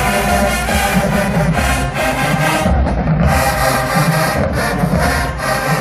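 HBCU marching band playing loudly: brass holding full chords over a steady drum beat.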